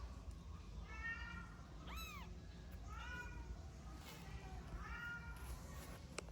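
A tiny kitten meowing, four short high-pitched meows at roughly one-second spacing, with a single sharp click near the end.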